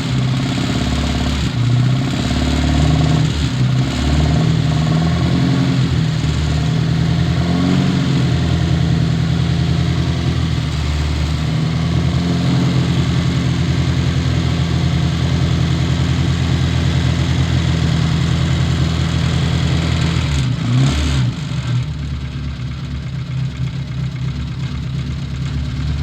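Classic Mini Cooper's A-series four-cylinder engine running after a no-start, held on the throttle at a steady fast idle. About 21 seconds in it drops back to a quieter idle.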